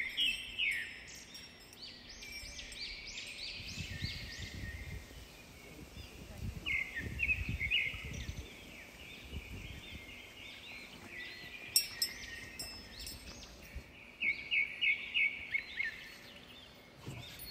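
Small songbirds calling in several bouts of quick rising chirps, with a low rumble partway through and a single click.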